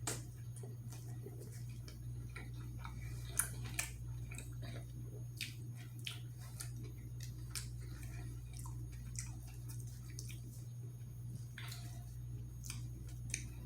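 Close-up eating sounds: chewing with scattered, irregular wet mouth clicks, over a steady low electrical hum.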